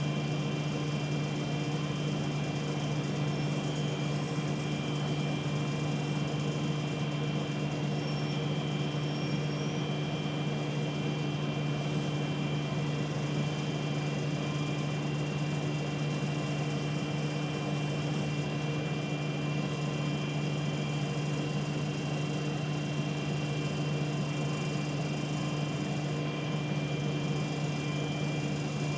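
Wright Solar single-deck bus with its engine on, giving out a constant buzz: a strong low hum with several fixed higher whining tones above it, over the bus's running noise. The buzz is present every time the engine runs.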